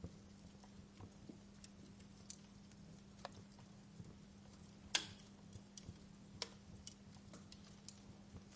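Wood fire crackling: scattered sharp pops and snaps over a quiet bed, the loudest pop about five seconds in. A faint steady low hum runs underneath.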